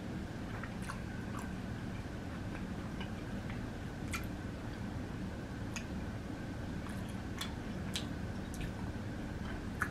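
Chewing crunchy Flamin' Hot Cheeto-crusted fried food: scattered short crunches and wet mouth clicks, about one a second, over a steady low room hum.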